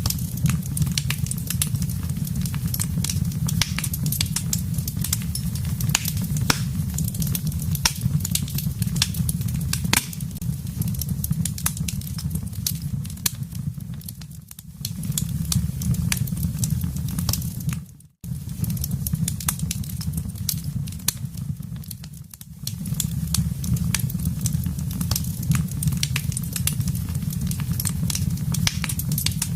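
Wood fire crackling, with many sharp pops and snaps over a steady low rumble of flames. The sound dips about halfway through, briefly almost cuts out, then comes back.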